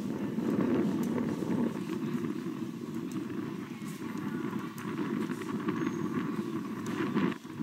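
117-series electric train rolling slowly over the points, its wheels clattering in a quick uneven rhythm over the rail joints and switches with a low rumble. The sound cuts off suddenly near the end.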